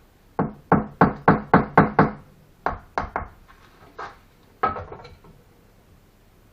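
Sharp knocks on brick during bricklaying: a quick run of about seven taps, roughly four a second, then a few slower, spaced taps, as a brick is knocked down to seat it in its mortar bed.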